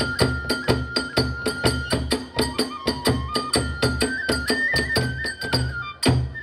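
Kagura hayashi music: a kagura flute playing a stepping melody over fast, even strokes of drum and ringing hand cymbals, about four to five strokes a second.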